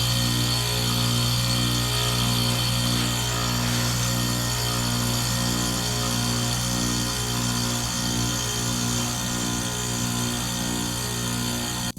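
Outdoor unit of a 2008 Rheem heat pump running in its defrost cycle: a steady, pitched mechanical hum with a slight regular pulsing, while the unit works to clear the ice off its coil.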